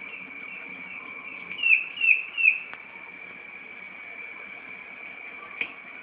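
A bird chirping, with three loud, sharp chirps in quick succession around two seconds in, each sliding downward. A steady high-pitched drone runs underneath.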